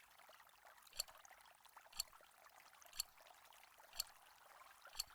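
Countdown timer ticking once a second: five short, sharp ticks over near silence.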